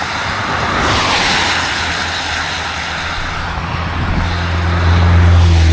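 Steady rushing roar of wind on an action camera's microphone and tyre noise from a downhill bike at speed, with a low hum that grows louder toward the end before it cuts off abruptly.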